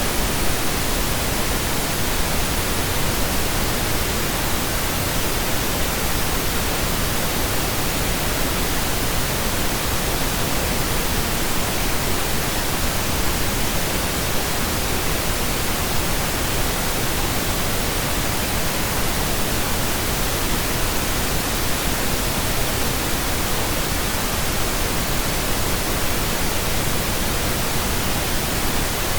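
Steady synthetic pink noise: an even, unchanging hiss spread across the whole range, with no tones or events.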